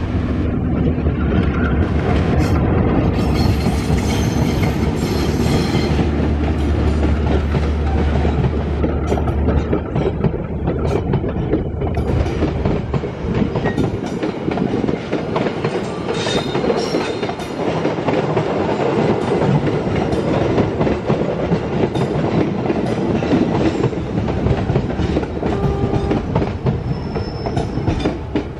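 Diesel locomotive hauling passenger coaches past, its engine drone strong for the first ten seconds or so, then giving way to the steady rumble and clatter of coach wheels on the rails.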